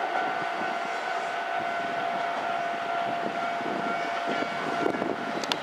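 Keisei commuter train pulling out and running away down the track, with a steady high whine that stops about five seconds in. A few sharp clicks come near the end.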